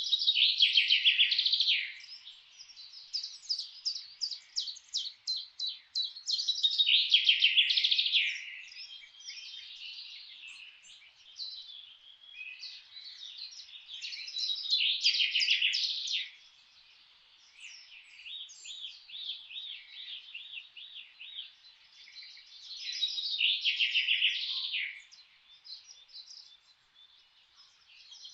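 Songbirds singing: a loud burst of rapid, trilling notes about every eight seconds, each lasting about two seconds, with quieter quick chirps in between.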